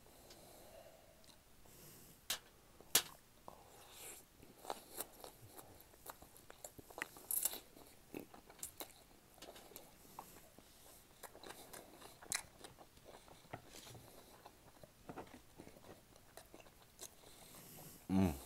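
A person chewing and crunching food close to the microphone, with irregular crunches and mouth clicks.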